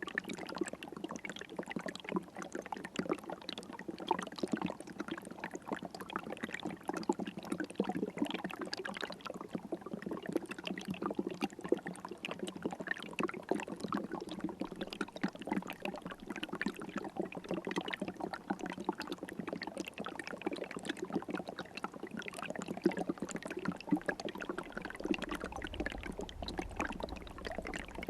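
River water flowing steadily, a dense, even trickle of many small splashes.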